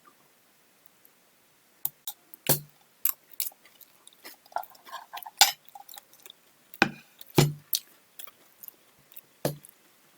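Close-up eating sounds: wet mouth clicks and smacks while chewing fruit, irregular and sudden, with a few louder knocks among them.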